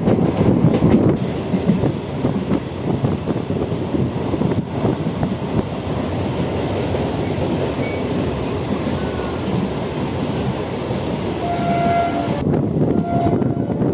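MEMU electric passenger train running along the track, a steady rumble of wheels and carriages heard from on board. A horn sounds briefly twice near the end.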